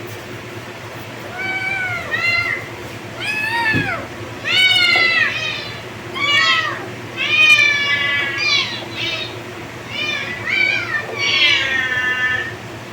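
Kittens meowing repeatedly: about a dozen high meows in quick succession, each rising then falling in pitch, starting about a second in.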